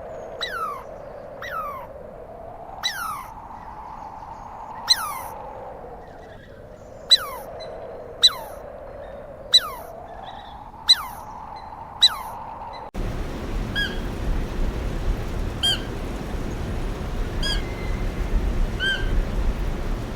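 Animal calls, first a series of about ten short calls that each slide downward in pitch, spaced unevenly. About two-thirds of the way through, an abrupt cut brings a different animal's short, level-pitched chirps over louder background noise.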